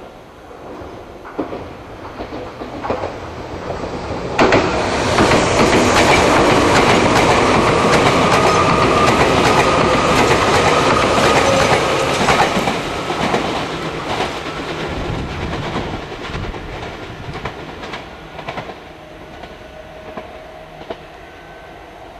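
A red Meitetsu electric train passing close, its wheels clattering over rail joints and switches. The noise builds about four seconds in, stays loud through the middle, then fades away.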